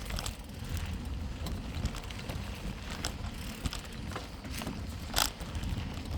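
Bicycle rolling over a rough dirt trail: tyre crunch and scattered clicks and rattles from the bike over a steady low rumble, with a sharper knock about five seconds in.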